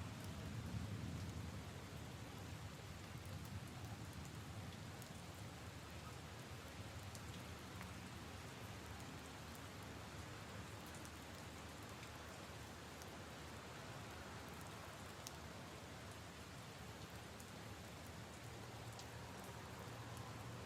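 Steady rain falling on leaves and puddles, with scattered single drops ticking. A low rumble fades away in the first second or two.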